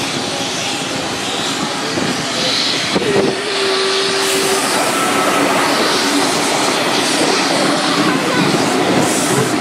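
Steam-hauled heritage passenger train running: a steady rushing rail noise, with a short steady tone about three seconds in.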